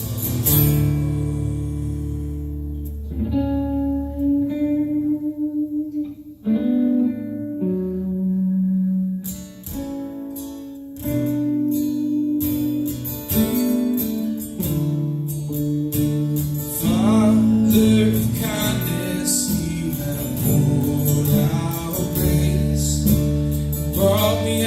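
Live worship band music carried by guitar, playing an instrumental passage between sung lines. It thins to a sparser, quieter stretch a few seconds in and builds back to the full band about nine seconds in.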